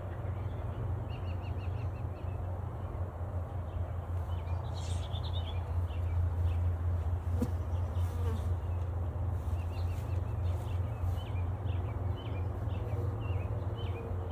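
Honeybees buzzing steadily in a crowd around a freshly installed hive, with a bird chirping in short repeated calls over it.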